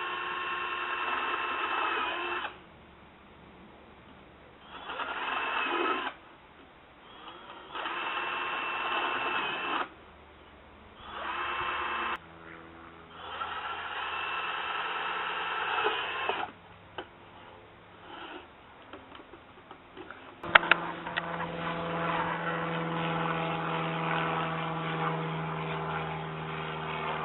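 Electric drill boring holes through the metal bottom of a coffee can, in five short runs of one to three seconds each with pauses between them. About twenty seconds in there is a sharp knock, then a steady low hum.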